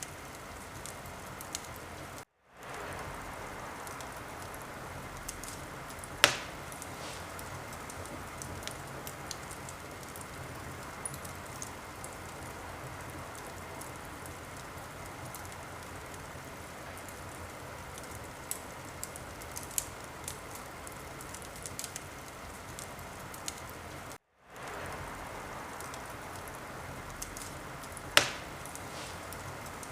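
Wood fire crackling in a fireplace: a steady hiss with many small crackles and two sharp, loud pops, one about six seconds in and one near the end. The sound cuts out to silence for a moment twice, where the recording loops.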